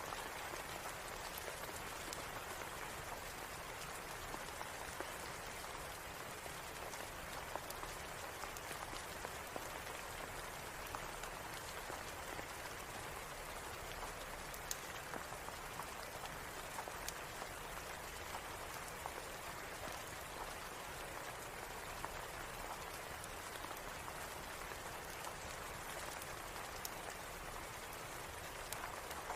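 Steady rain, an even hiss, with scattered sharp clicks throughout.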